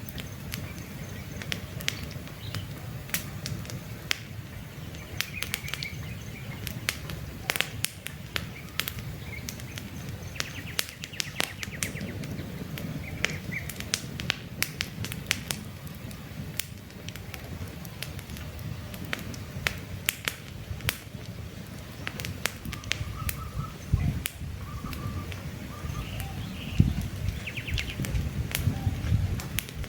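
Wood campfire crackling, with frequent sharp pops and snaps over a steady low rumble of flame. Short bird chirps come now and then in the background.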